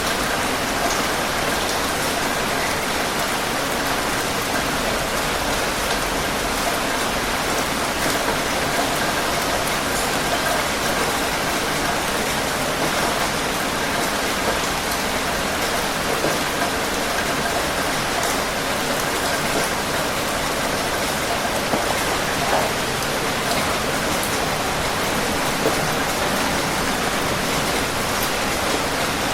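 Steady rain falling on a surface, an even dense patter with scattered individual drops ticking through it.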